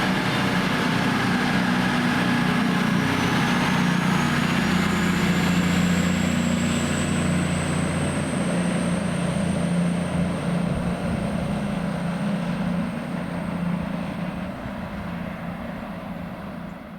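Train passing, with a steady low engine drone and a high-pitched whine that slowly rises from a few seconds in; the sound gradually fades toward the end.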